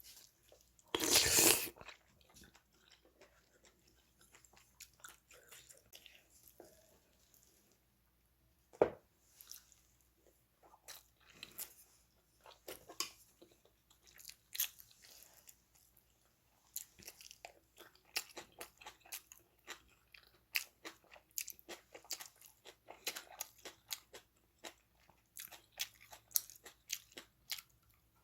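Close eating sounds: a person chewing and biting, with many short crunches and clicks, and a louder clatter about a second in.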